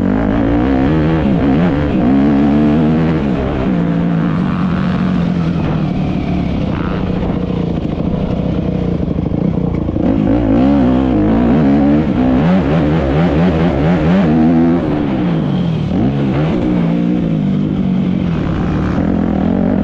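Motocross dirt bike engine revving, its pitch rising and falling again and again as the throttle opens and closes.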